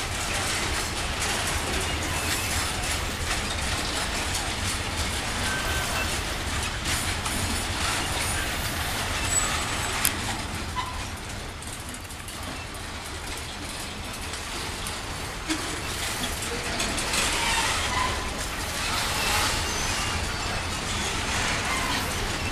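Freight train of covered hopper wagons rolling past, a steady rumble and clatter of wheels on rails, with a sharp clank about ten seconds in and another about fifteen seconds in.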